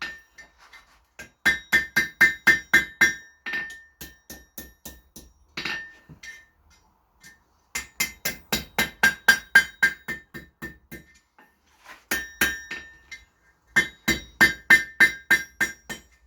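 Hammer blows on the mild steel bar over an anvil, each strike ringing clearly. They come in runs of quick blows, about four a second, with short pauses and a few single taps between the runs.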